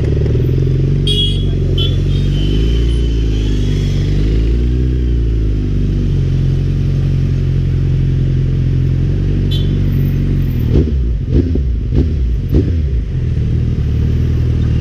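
A Suzuki Hayabusa's inline-four engine running at low revs as the motorcycle creeps through slow traffic. About eleven seconds in come four quick throttle blips, roughly half a second apart.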